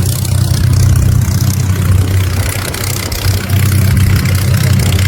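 Steady low engine drone with an even hiss above it, unchanging in pitch.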